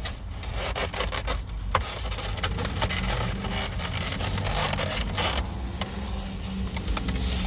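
Rustling and scraping of things being handled inside a car, with scattered small clicks and knocks, over a steady low rumble.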